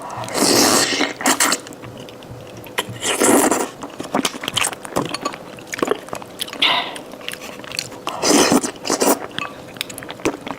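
Close-miked eating of spicy malatang: wet chewing with small mouth clicks, broken by about four loud, noisy mouthfuls.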